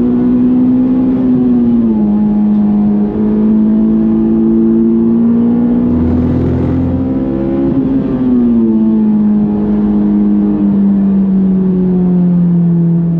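Honda S2000's F22 2.2-litre four-cylinder engine running hard at high revs. Its pitch drops suddenly about two seconds in and again about eight seconds in, then sinks steadily toward the end.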